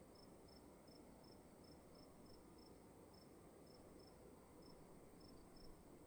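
Crickets chirping faintly in a quiet room: short, regular high chirps about three a second, with a brief pause midway, over a steady high whine and low room hiss.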